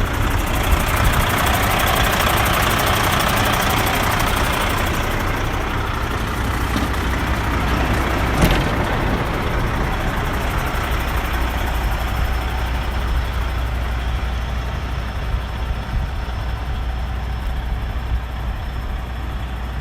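Diesel engine of a 2005 Freightliner Columbia 120 semi truck idling with a steady low rumble, a little louder in the first few seconds. A single sharp click comes partway through.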